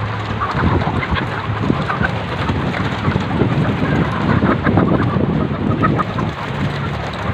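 A large flock of laying hens calling and clucking all at once, many short overlapping calls, over a steady low hum.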